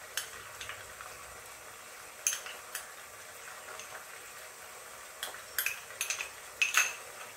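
Chicken pieces frying in oil in a pot, a steady faint sizzle, with sharp clinks of a metal spoon against a glass bowl as sauce is scooped out, a few early on and a quick cluster near the end.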